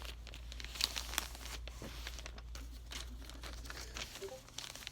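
A sheet of paper being folded and creased by hand into a paper airplane wing, crinkling and rustling in short, sharp crackles.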